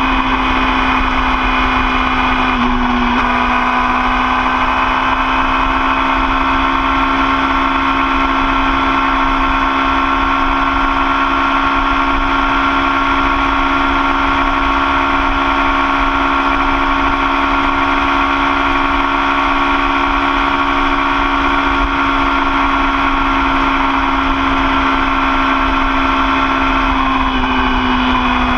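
Yamaha YZF-R6's 600 cc inline-four engine running steadily at cruising speed, with a low wind rumble underneath. The engine note dips and climbs back about three seconds in, then holds steady and steps down slightly near the end.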